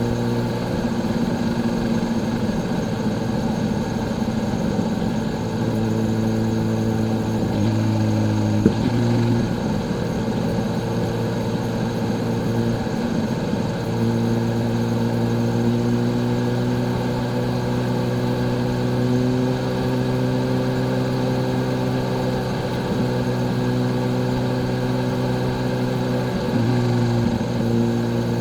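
Kawasaki Z H2's supercharged inline-four engine running at a steady cruising pitch on the move, with the note dipping and changing briefly a few times, around a third and a half of the way in and again near the end.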